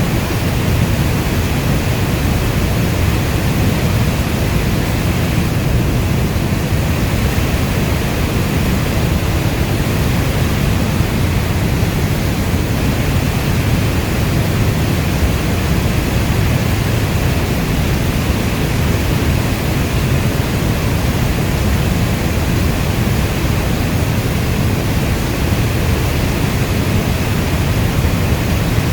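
Rainstorm: a steady, unbroken hiss of rain with a heavy low rumble beneath it, not changing in level.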